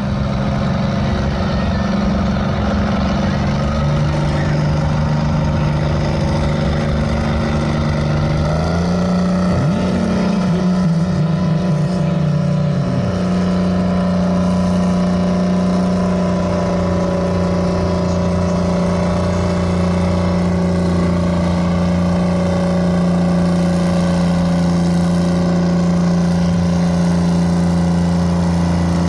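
Antique tractor engine running hard under load while pulling a sled, a steady drone whose pitch steps up about nine seconds in and then holds.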